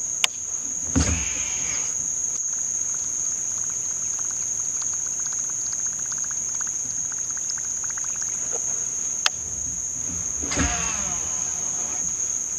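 Steady high-pitched chirring of insects. About a second in, and again near the end, a baitcasting reel whirs briefly as it is cast, and in between come fast, even ticks as the reel is cranked to retrieve the lure.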